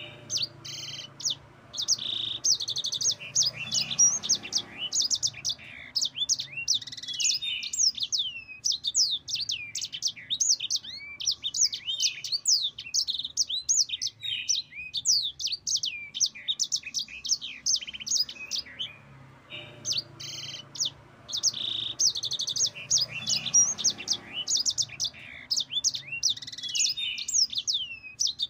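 Yellow-fronted canary (Mozambique canary) singing long, fast rolling runs of high, twittering, gliding notes, with a short break just before the last third.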